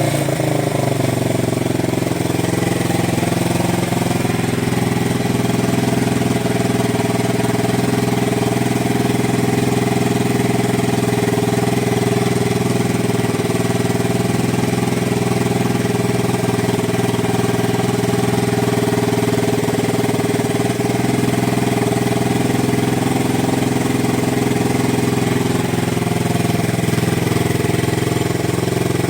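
Yamaha TW200's single-cylinder four-stroke engine idling steadily through an aftermarket Gatling muffler, its revs settling in the first second after a brief blip.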